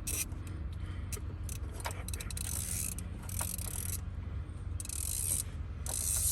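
Socket ratchet clicking in short runs as dashboard screws are worked loose, over the steady low hum of the idling truck engine.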